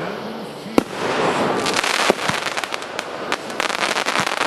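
Fireworks going off: a sharp bang about a second in, then a dense run of crackling and rapid pops.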